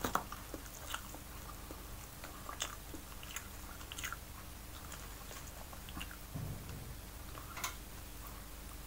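Close-up mouth sounds of a person eating steamed fish: soft chewing with scattered short wet clicks and smacks, the sharpest just after the start and again near the end.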